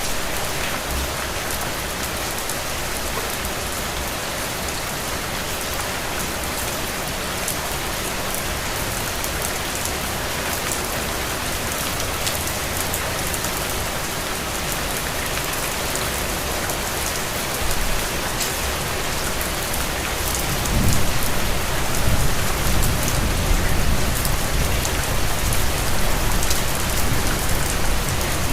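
Steady rain falling on surfaces, an even hiss with fine patter of individual drops. About two-thirds of the way in, a low rumble comes in underneath and the sound grows louder.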